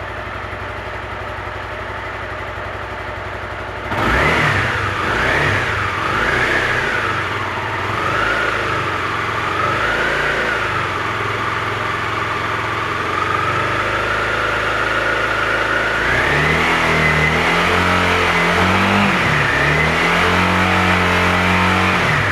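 Honda CBR250R single-cylinder engine with its stock air filter, idling for about four seconds, then revved and held around 3000 rpm with the revs wavering up and down. About sixteen seconds in it is raised to around 6000 rpm and held there, then drops back toward idle at the very end.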